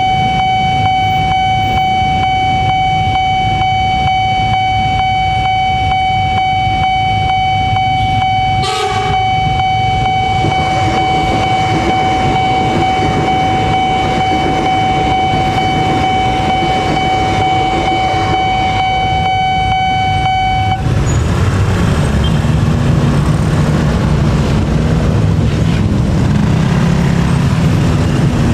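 Railway level-crossing warning alarm sounding one steady high electronic tone over the low rumble of passing rail and road traffic. The tone cuts off suddenly about 21 seconds in, and the rumble grows louder. There is a short hiss about nine seconds in.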